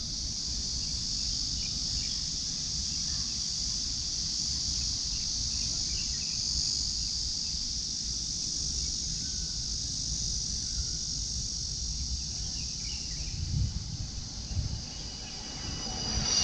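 A chorus of insects keeps up a steady, high-pitched drone, with low wind rumble on the microphone underneath.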